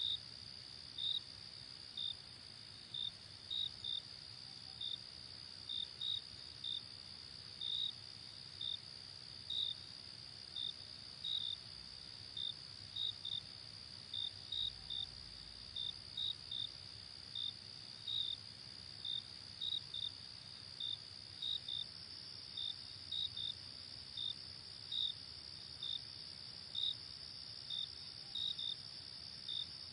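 Night crickets chirping: a steady high trill with separate short chirps over it, about one to two a second, unevenly spaced.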